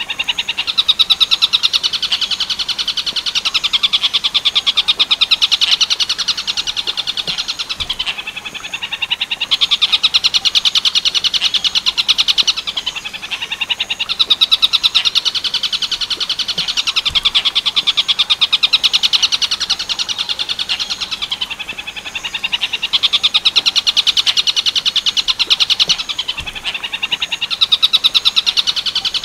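Tengkek buto bird song: a continuous, very fast rattling trill of high notes, carried on in long phrases with a short dip in loudness every five to seven seconds.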